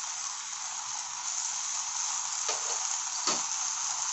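Puffed rice and chopped onion, capsicum and tomato sizzling steadily in a hot non-stick kadhai, with two short knocks of the wooden spatula against the pan about two and a half and three seconds in.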